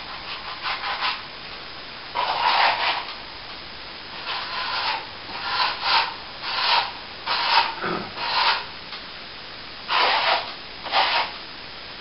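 A hand tool scraping across a plaster wall in short repeated strokes, roughly one a second, with a pause of about a second before the last two.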